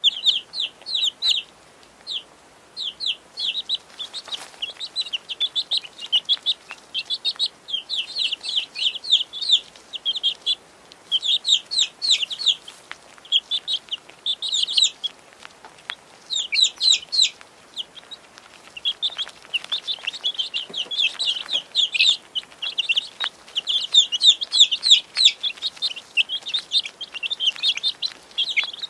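Many baby chicks peeping continuously, a dense chorus of short high chirps in rapid clusters with brief gaps.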